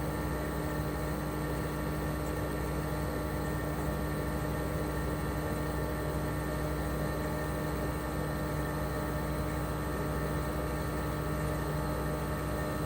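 Toshiba RAS-285BAD mini-split outdoor unit running in cooling mode: its twin-rotary inverter compressor gives a steady hum with several fixed tones, over the even rush of the propeller fan.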